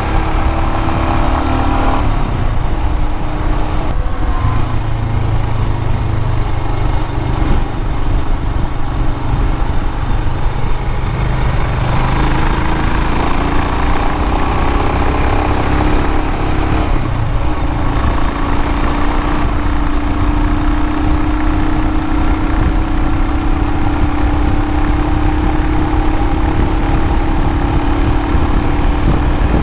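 Royal Enfield Himalayan's 411 cc single-cylinder engine running on the move, its note shifting pitch several times and then climbing slowly through the last ten seconds, over a steady rumble of wind and road noise.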